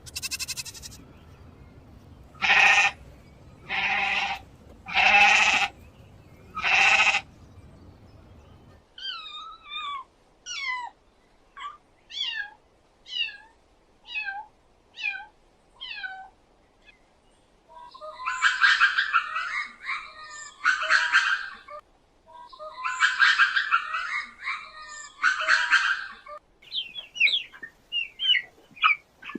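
A goat bleats four times, about a second each. It is followed by a bird calling in a run of short falling chirps and then two spells of harsh chattering.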